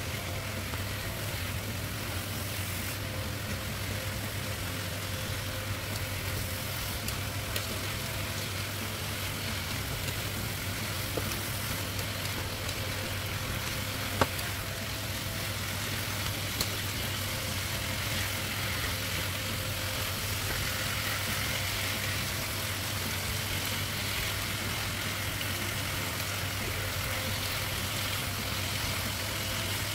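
Chicken pieces, green beans and grated tomato frying in a pan, a steady sizzle over a constant low hum, with one sharp tap of a utensil about fourteen seconds in.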